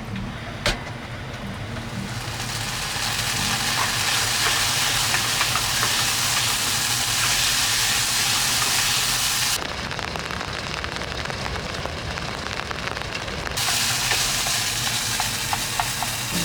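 Heavy rain hissing on and around a vehicle, over a low, steady engine drone. The hiss cuts out suddenly about ten seconds in and comes back a few seconds later.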